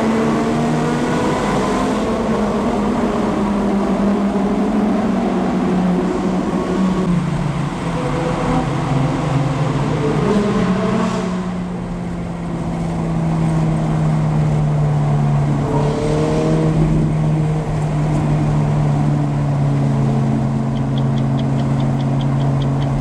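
Sports car engine revving and accelerating, its pitch rising and falling through the gears, then holding a steady high note from about halfway through.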